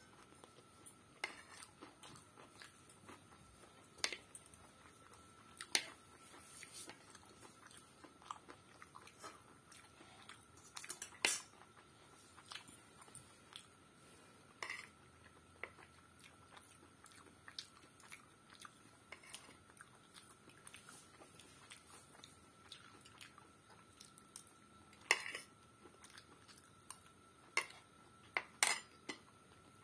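Close-up chewing and biting of egg pasta, with sharp clicks of a metal spoon against the plate now and then, the loudest about a third of the way in and twice near the end.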